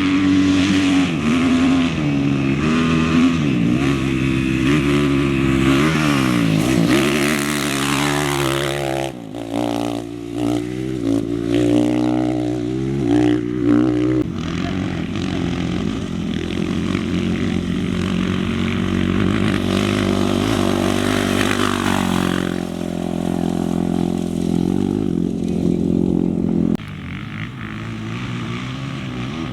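Off-road racing motorcycle engines revving hard, pitch climbing and falling again and again as they accelerate, shift and pass. The engine sound changes abruptly several times.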